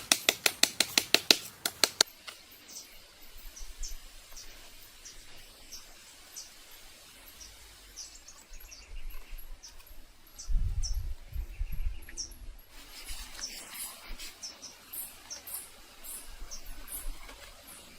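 Rapid loud taps or clicks, about five a second, that stop about two seconds in, then short high bird chirps scattered throughout. A low rumble comes in for about a second and a half near the middle.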